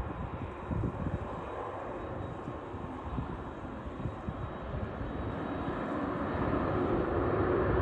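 Jet airliner engine noise, growing steadily louder as the aircraft draws nearer.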